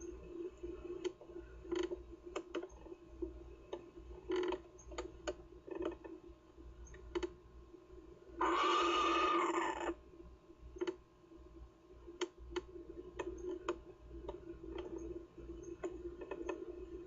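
Irregular clicks and creaks over a steady low hum, typical of a nest camera being knocked about by the wind. About halfway through comes one loud harsh sound lasting about a second and a half, its pitch rising and falling.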